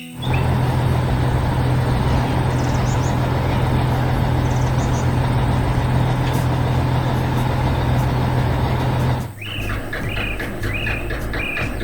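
A heavy vehicle's engine running steadily with a deep hum, cutting off suddenly about nine seconds in. Short bird-like chirps over an even ticking rhythm follow near the end.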